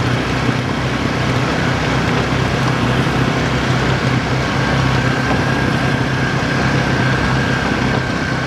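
A motor vehicle's engine running at a steady speed under constant road and wind noise; a thin, high, steady whine grows stronger about halfway through.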